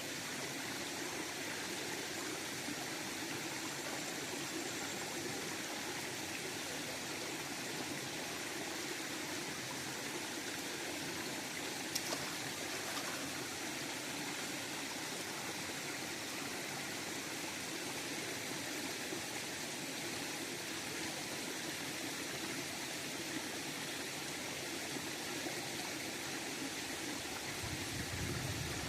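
River water flowing in a steady, even rush, with one brief click near the middle.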